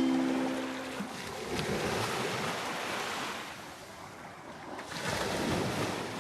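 Sea surf washing on the shore, swelling and easing, with wind on the microphone.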